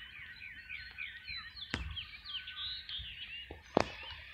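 Birds chirping: a quick run of short falling chirps, several a second. Two sharp clicks cut through, about two seconds in and a louder one near the end.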